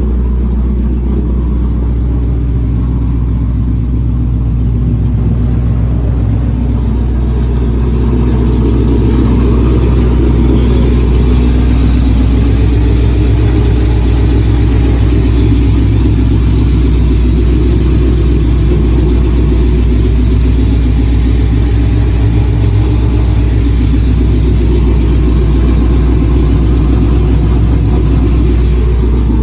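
Idle of a 2011 Ram 1500's 5.7 L Hemi V8 with a stage 3 cam, long-tube headers, no catalytic converters, an X-pipe and no mufflers: a loud, deep, choppy exhaust note that holds steady and gets somewhat louder about a third of the way in.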